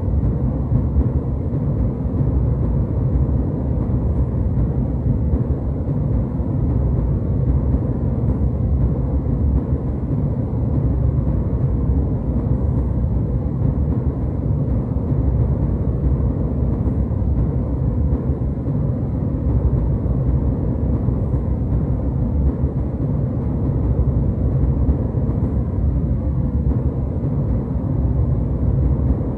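Steady low rumbling jet noise as heard inside an airliner cabin in flight, even and unchanging, its energy mostly in the low end.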